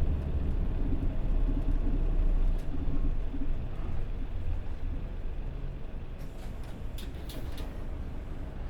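City bus's diesel engine and drivetrain rumbling from inside the cabin of a Mitsubishi Fuso Aero Star, heavier for the first three seconds and then easing off. Several short air hisses about six to seven and a half seconds in.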